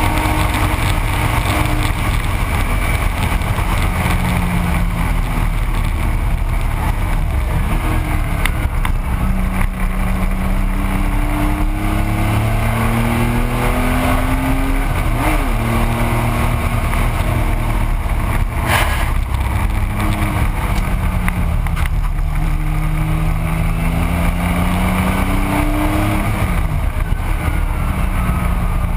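1985 Porsche 911's air-cooled flat-six engine at race pace, heard from inside the cabin. The engine note climbs and drops again and again through the lap, over steady wind and road rumble.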